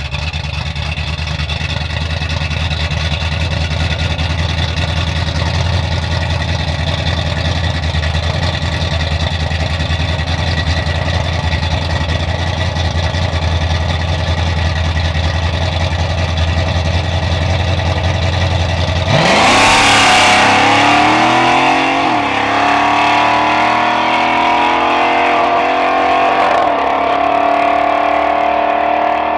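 Drag racing car's engine running steadily at a low pitch, then launching hard about nineteen seconds in, its pitch climbing with a gear change shortly after and another near the end.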